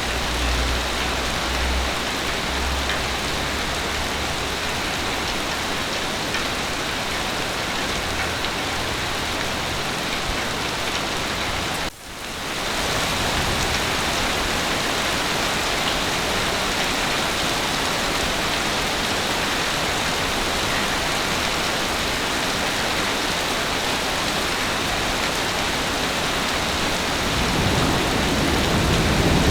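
Heavy rain falling steadily, with a brief drop in level about twelve seconds in. A low rumble builds near the end.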